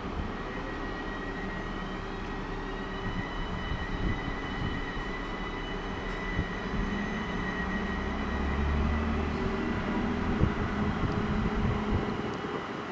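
Standing passenger trains at a station platform: a steady high whine, joined by a low rumble that swells about eight seconds in and eases off again.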